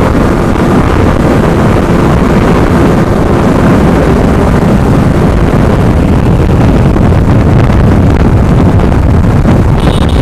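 Loud, steady wind rush buffeting the microphone of a Yamaha R15M motorcycle ridden at high speed, with the bike's single-cylinder engine running underneath.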